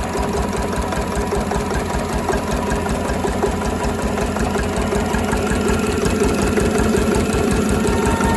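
Slavia 8 hp single-cylinder stationary diesel engine running steadily with an even, regular beat, just brought back to life after four years standing.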